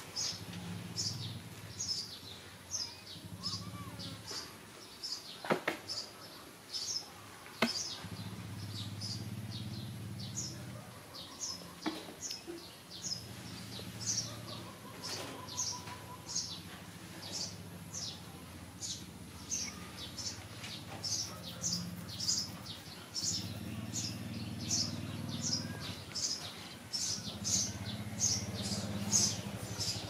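A bird chirping over and over, short high chirps a little faster than once a second, over a low hum that comes and goes.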